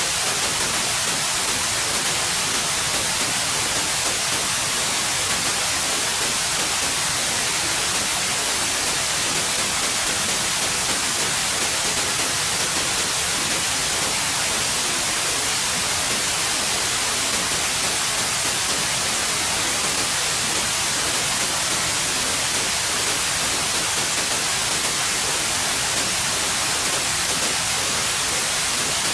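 Steady white noise: an even, unbroken hiss with no change in level or pitch.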